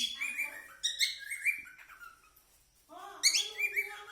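Cockatiel whistling a song: quick runs of short, clear whistled notes in two phrases, with a pause of about a second between them.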